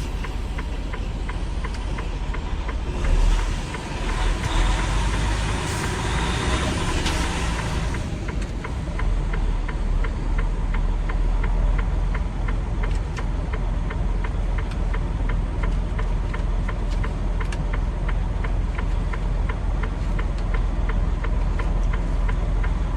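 Semi-truck running, a steady low engine and road rumble heard from the cab. About three seconds in a loud hissing rush rises over it for several seconds, then fades.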